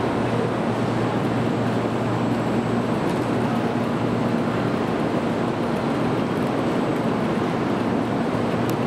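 Steady hum of an N700 series Shinkansen train standing at the platform, its onboard equipment running, under the even rush of station ambience, with a faint tick near the end.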